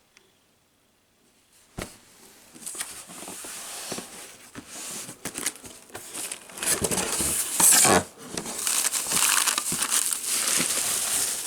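A single knock about two seconds in, then irregular crinkling and rustling of packaging as the cardboard box is opened and its contents handled. The crinkling is loudest about two-thirds of the way through.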